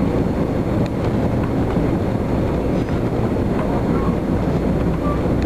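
Passenger train rolling along the track, heard from inside the coach: a steady rumble of wheels on rails with a few faint clicks.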